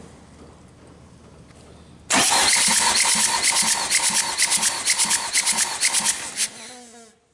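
Hyundai D4DA diesel engine turned over by its starter motor for a compression test. The loud cranking starts about two seconds in, with an even beat about three times a second. Near the end it stops and the starter winds down with a falling whine.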